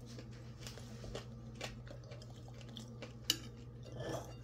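Quiet chewing with a few faint clicks, then a metal spoon knocking in a soup bowl near the end, over a steady low hum.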